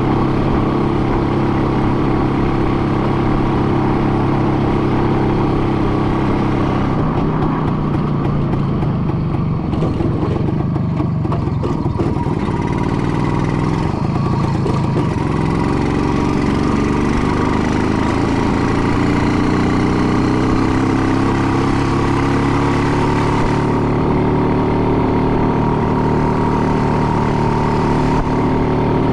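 An engine running, steady at first, unsettled for several seconds about a quarter of the way in, then its pitch slowly climbing through the second half.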